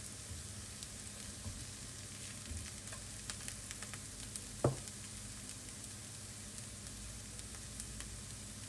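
Diced potatoes and red pepper frying in a pan, a steady sizzle with scattered small pops. A single sharp knock about halfway through is the loudest sound.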